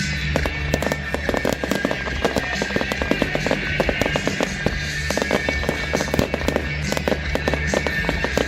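Fireworks crackling in a dense, rapid string of sharp cracks, over loud music with steady bass notes.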